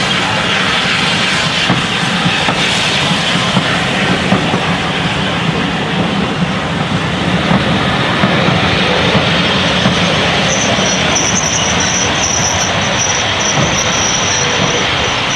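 Passenger coaches of a steam-hauled train rolling past close by on a curve, wheels running steadily on the rails. From about ten seconds in, a thin high-pitched wheel-flange squeal sets in and carries on.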